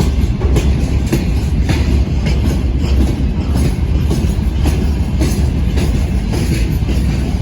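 A train passing close by, its wheels clattering over rail joints and points, with several sharp clicks a second over a heavy low rumble.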